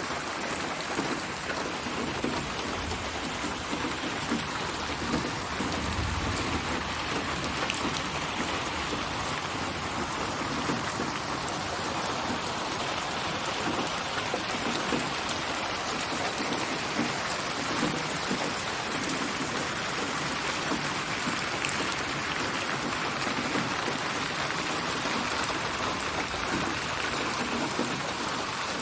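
Steady rain falling in an even, continuous patter of drops.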